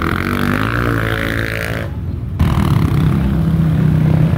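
Off-road race motorcycle engines: one revs up, rising in pitch, then about two seconds in the sound cuts abruptly to another engine running at a steadier pitch.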